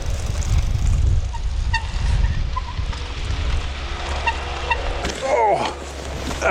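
Low rumbling noise of a bicycle riding through snow, with faint creaks from the bike. About five seconds in, a short pitched call falls steeply in pitch.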